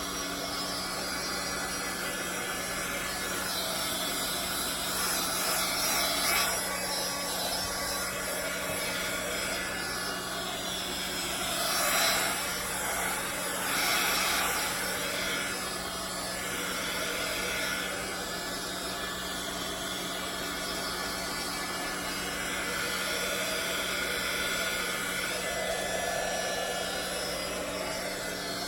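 Heat gun's fan motor running steadily, blowing hot air over the wet acrylic pour to pop air bubbles; it swells louder twice around the middle.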